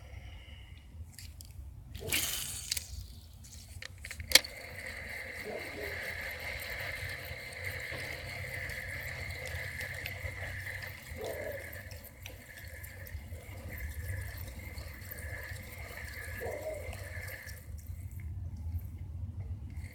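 Steady rain and water sounds on a lake, with a short burst of noise about two seconds in and a single sharp click a little after four seconds.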